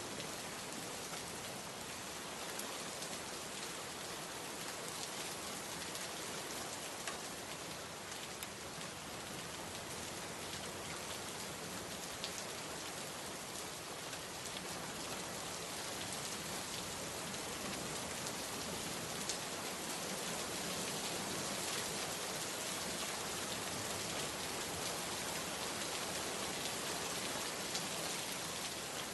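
Steady heavy rain falling on a surface, an even hiss with scattered drop ticks, growing a little louder after the middle.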